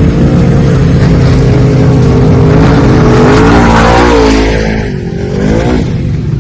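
An off-road vehicle's engine running hard at high revs, its pitch wavering up and down as the throttle works. A rushing noise swells through the middle, and the engine note drops away shortly before the end.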